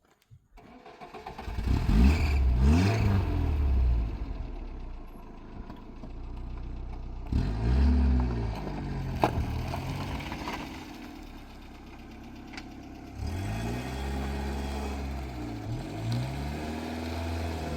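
A motor vehicle's engine revving up and easing off three times, running more quietly in between, with some clatter.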